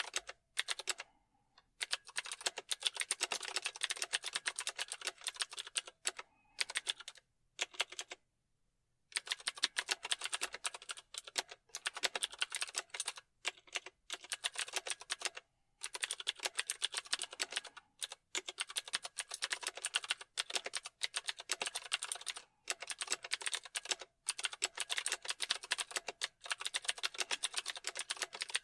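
Typing on a computer keyboard: rapid runs of key clicks broken by short pauses, the longest about eight seconds in.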